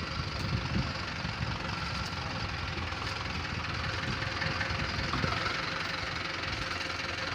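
Heavy vehicle's engine idling steadily at a low, even level.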